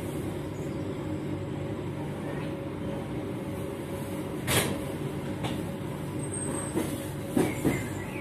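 Steady rumble of a moving passenger train heard from inside the coach, with a sharp knock about four and a half seconds in and two more close together near the end.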